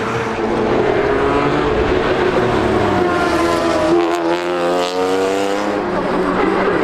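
V8 stock race cars running at speed on the circuit, several engine notes overlapping and rising and falling in pitch as cars go by, with one passing most clearly about four to five seconds in.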